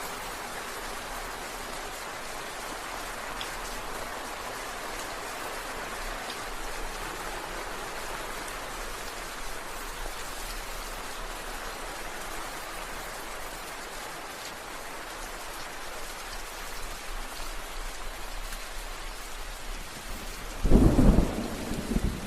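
Steady rain falling, an even hiss, with a sudden loud crack of thunder near the end followed by a second, weaker rumble.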